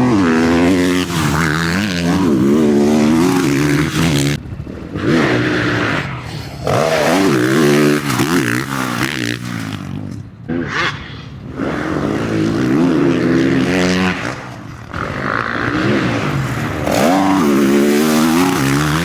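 Motocross bike engine revving hard, its pitch climbing and falling again and again as the rider accelerates, shifts and backs off. The throttle shuts briefly several times.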